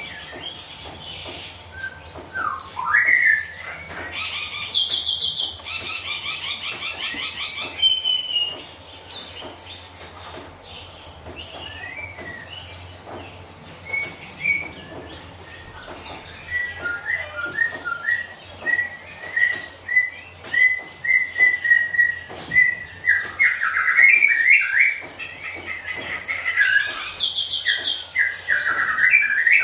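Oriental magpie-robin singing a varied song of whistled notes and slurred glides. It breaks into fast rattling trills twice and sings a long run of short repeated notes in the middle.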